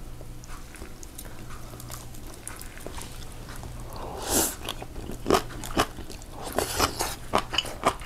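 Close-miked eating: a person biting and chewing food, quiet at first, then a dense run of sharp, crunchy mouth clicks over the last three seconds. A short breathy rush about four seconds in.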